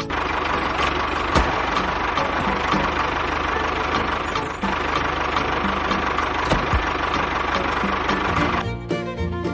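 Miniature home-built flour mill and its small motor running steadily: a dense whirring grind with a steady whine, stopping abruptly near the end.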